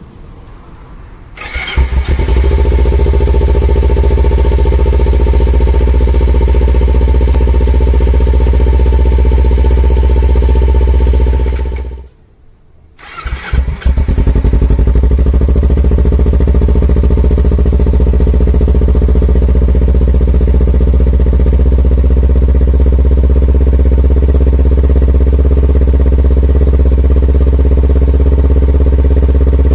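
Kawasaki Ninja 250 with an SP Takegawa aftermarket muffler starting up and running at a steady idle. The engine stops about twelve seconds in, starts again a second or so later and idles steadily.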